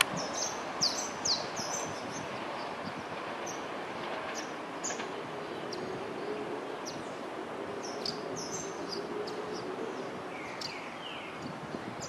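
Electric commuter train rolling away along the track, its steady noise slowly fading. Birds chirp throughout, loudest about a second in.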